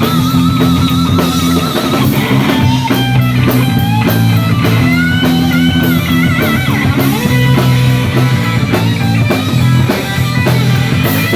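Rock and roll band playing an instrumental break: an electric guitar solo of held, wavering notes and bent phrases over bass and drums.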